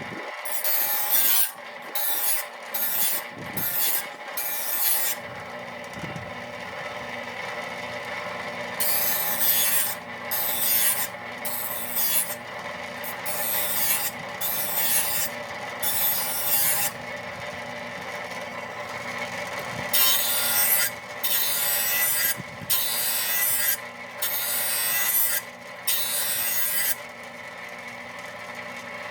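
Electric grinder running steadily while a steel mower blade's cutting edge is pressed against the wheel in repeated short grinding passes, each a hiss lasting about a second, some coming in quick clusters. This is a dull zero-turn mower blade being sharpened.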